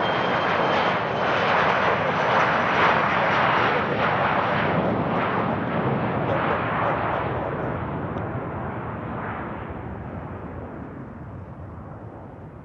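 Embraer Legacy 600 business jet at takeoff power, its twin Rolls-Royce AE 3007 turbofans giving a loud roar. The roar is strongest about two to four seconds in, then fades steadily as the jet climbs away.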